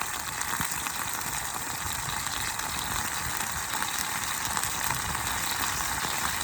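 Meat sizzling on a grill over a campfire: a steady hiss with fine crackles.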